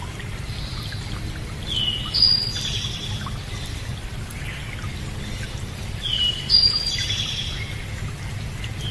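A songbird sings the same short whistled phrase twice, about four seconds apart, over a steady rush of running water.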